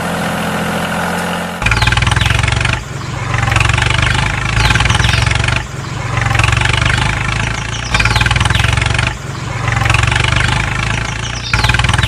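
Tractor engine idling steadily, then from about one and a half seconds in running louder in repeated surges, rising and dropping about every one and a half seconds.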